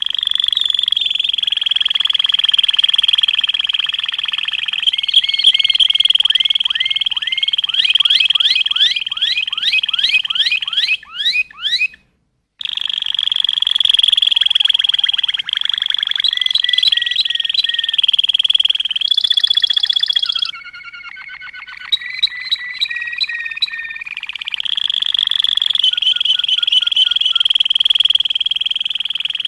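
Dense chorus of animal calls: a continuous high-pitched trill with series of quick rising chirps over it, speeding up for a while before a sudden cut. The recording breaks off and changes abruptly a few times, as if spliced from separate recordings.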